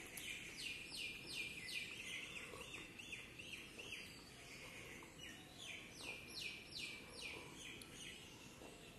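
A bird calling: a string of short chirps, each falling in pitch, a little more than two a second. A strong run comes in the first two seconds, fainter chirps follow, and a second strong run comes about five seconds in.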